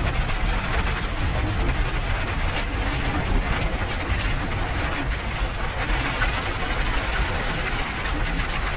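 Steady rain: an even hiss with a deep low rumble underneath, no single drops standing out.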